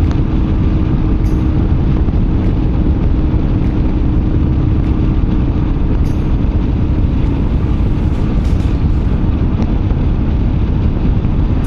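Motorcycle under way at a steady speed: engine running and wind buffeting the microphone as a dense, steady low rumble with a constant hum.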